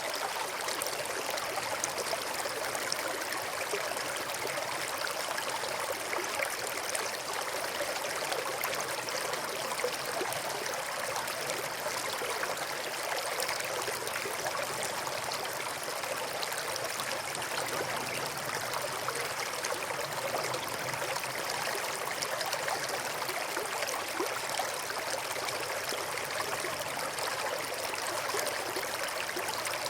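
River water flowing and splashing over rocks: a steady rushing babble with fine trickling detail.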